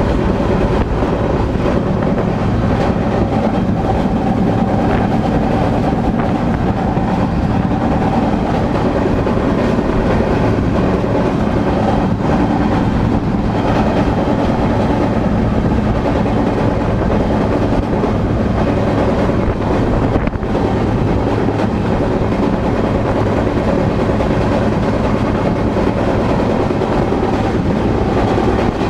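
Freight train running, a steady loud rumble of wheels on rail.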